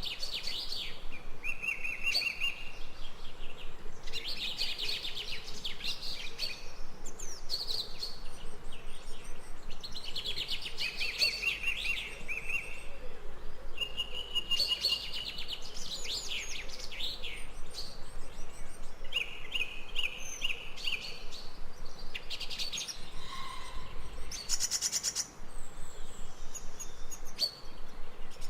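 Songbirds singing, short chirping phrases and quick trills repeating every few seconds over a faint steady background hiss.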